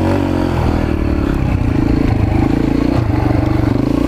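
Mini bike's small engine running as it is ridden, its pitch rising and falling a little with the throttle.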